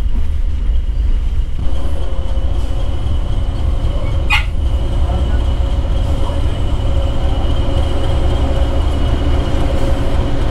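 Heritage railway passenger carriage rolling along the track, heard from inside the coach: a steady low rumble. A faint steady whine joins in about two seconds in, and there is a short sharp squeak about four seconds in.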